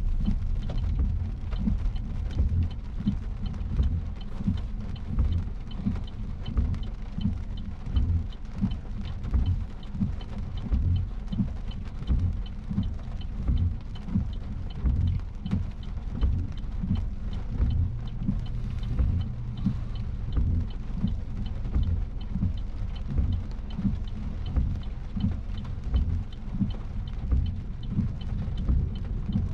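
Road noise inside a moving car's cabin: a low rumble that rises and falls unevenly.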